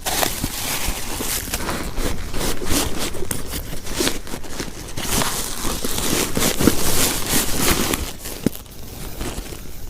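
Plastic sheeting crinkling and rustling in irregular bursts as it is handled.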